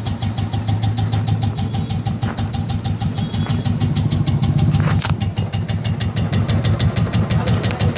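Royal Enfield motorcycle engine idling with a steady, rapid tik-tik ticking over its low hum, which the owner puts down to the decompressor gear and calls not a big issue.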